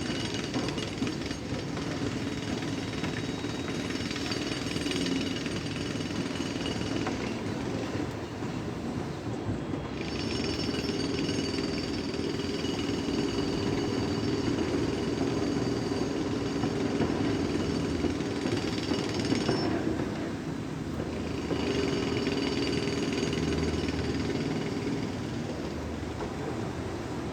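Construction-site power tool hammering rapidly and continuously, jackhammer-like, over a steady machine tone. The tone drops away twice for a couple of seconds, about a third of the way in and again about three-quarters of the way in.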